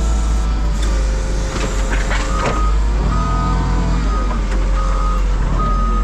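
Forklift's diesel engine running under load, its pitch rising and falling, with a reversing alarm beeping steadily about once every second from about two seconds in.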